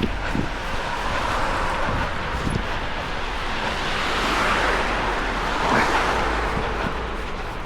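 Wind buffeting the microphone in a steady low rumble, with road traffic noise from passing cars that swells about four to six seconds in.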